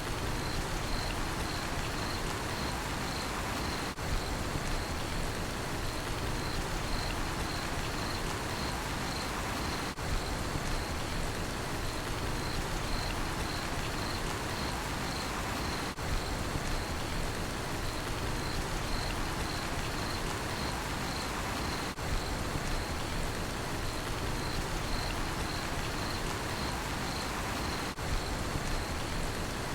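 Steady rain falling, with crickets chirping at about two chirps a second. The level dips briefly every six seconds.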